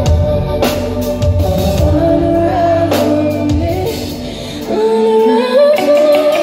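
Live concert music: a band with deep bass and drum hits under a woman singing. About five seconds in, the bass drops out, leaving a held, wavering sung line.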